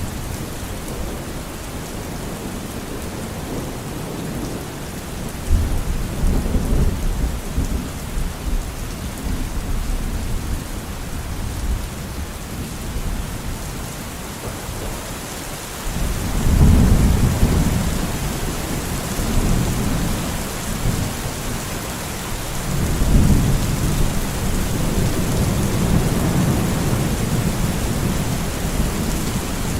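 Steady rain hissing, with rolls of thunder rumbling low: one starts about five seconds in, a louder one about sixteen seconds in, and another about twenty-three seconds in.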